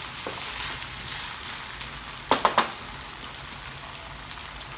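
Chicken and peppers sizzling in a frying pan as a wooden spatula stirs them. About halfway through there are three quick, sharp knocks, the loudest sounds here: the spatula striking the pan.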